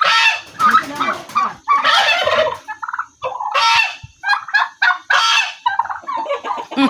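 Domestic turkeys gobbling, one loud call after another about every second and a half.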